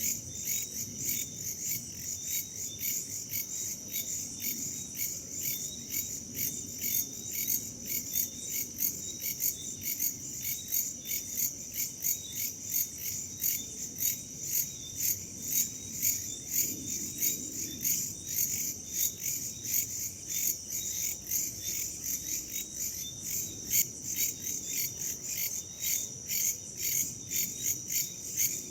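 A dense chorus of crickets and other insects chirping, a steady high-pitched trill made of fast, evenly repeating pulses, over a soft low rumble of wind.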